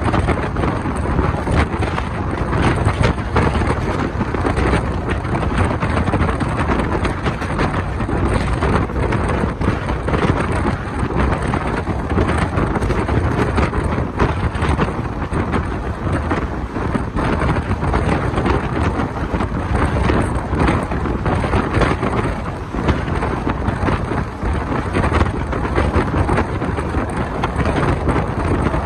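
Wind buffeting the microphone held out of a moving passenger train, over the steady running noise of the coach on the track. The noise stays loud and even throughout, heaviest in the low end.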